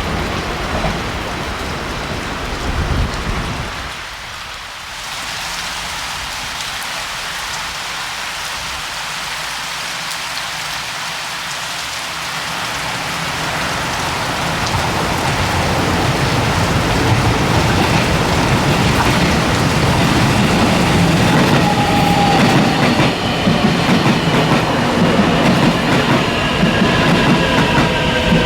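Taiwan Railway electric multiple-unit trains at a station. The rushing wheel-on-rail noise of one passing train cuts off about four seconds in. The next train's noise then builds steadily as it comes in, and whining tones rise over it near the end.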